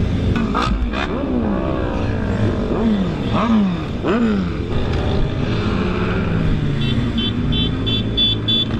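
Motorcycle engine running and revving, its pitch climbing and then dropping several times as it changes gear. Near the end there is a quick series of short high beeps, about four a second.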